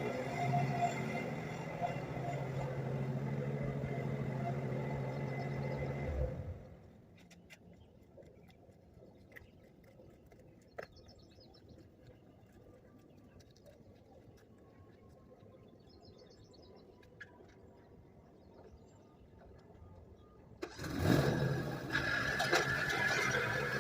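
Four-stroke lawn mower engine running steadily, then cutting off abruptly about six seconds in. A quiet stretch follows with a few light clicks and faint bird chirps, until an engine starts with a burst near the end and keeps running.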